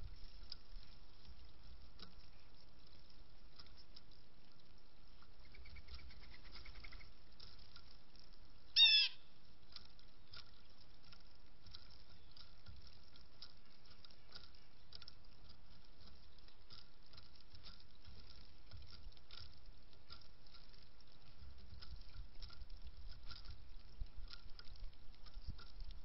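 Faint scattered ticks of birds pecking at seed on a feeder. About nine seconds in comes one short, loud, harsh bird call that falls in pitch, with a faint brief trill a few seconds before it.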